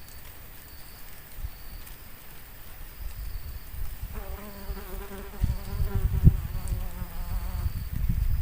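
A flying insect buzzing close by for about three and a half seconds, starting about four seconds in, its pitch wavering slightly. Under it is a low rumble with a few thumps, and a faint high chirp repeats steadily.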